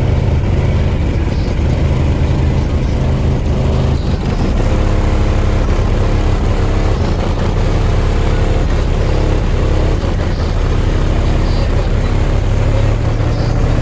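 A truck's car-audio system playing bass-heavy music very loud through four 18-inch subwoofers in a sixth-order wall enclosure, the deep bass notes changing every second or so.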